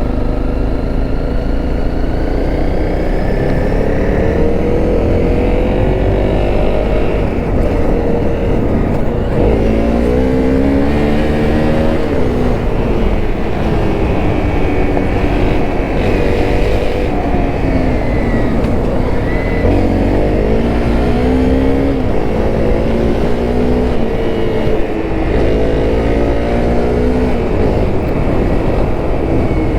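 Honda CRF250L's single-cylinder four-stroke engine under way. It climbs in pitch and drops back several times as it pulls through gears, over a steady rumble of wind and road.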